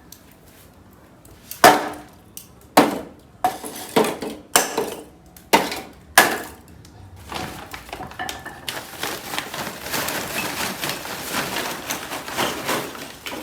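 A run of sharp wooden knocks and clatters, about seven in the first half, then a steady crackling hiss from about the middle on: a small wood fire, lit with ethanol, burning and popping.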